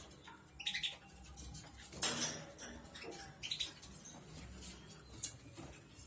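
Small caged birds giving scattered short, sharp chirps, with a brief clatter about two seconds in.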